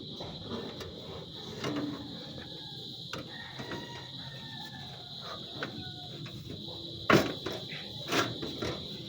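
Knocks and clicks of a power supply unit being fitted back into a desktop PC case, with two sharp knocks about a second apart near the end.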